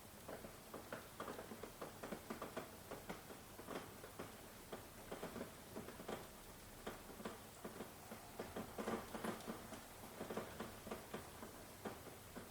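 Rain falling as an irregular patter of separate drops tapping close by, several a second, over a faint hiss.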